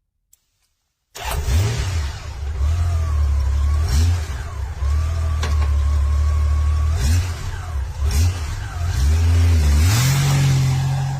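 Honda motorcycle engine running, cutting in suddenly after about a second of silence. It blips upward several times, then its pitch climbs near the end as it accelerates.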